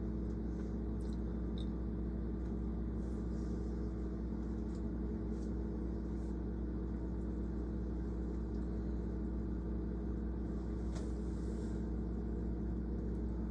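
Steady low mechanical hum with several constant tones, unchanging throughout.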